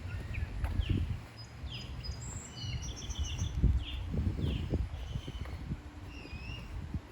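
Small birds chirping outdoors, with repeated short downward-sweeping chirps and higher twittering phrases, over irregular low thumps and rumble.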